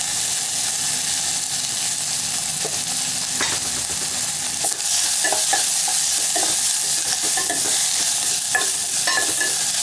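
Chopped onion, green chillies and curry leaves sizzling in hot oil in a steel pot. About midway a metal spoon starts stirring, with repeated short scrapes against the pot.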